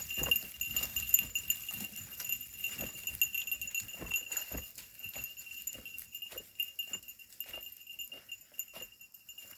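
A flock of sheep moving along on foot, giving many irregular soft hoof steps and rustles, busier in the first half, over a steady thin high-pitched hum.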